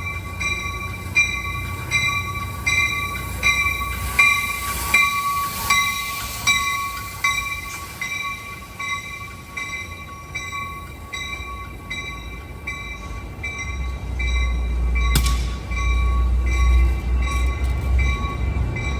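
Amtrak San Joaquin passenger train moving out, led by its cab car, while a bell rings steadily about once every three-quarters of a second and fades after the middle. A low diesel rumble swells near the end as the F59PHI locomotive pushing at the rear comes by.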